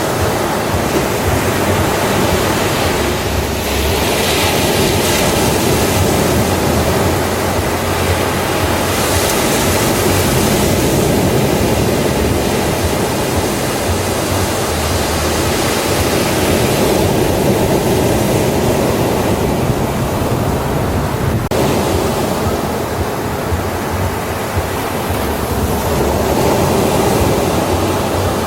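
Ocean surf breaking on a beach: a continuous wash of waves with slow swells as each wave comes in and recedes.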